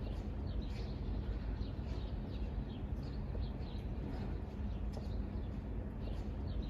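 Birds chirping in many short, falling calls over a steady low rumble of outdoor background noise.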